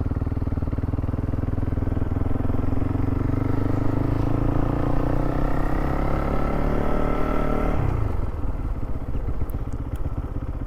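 Motorcycle engine under way, its pitch rising steadily over several seconds as it accelerates. Then the throttle is closed about eight seconds in and the note drops sharply to a lower, rougher run.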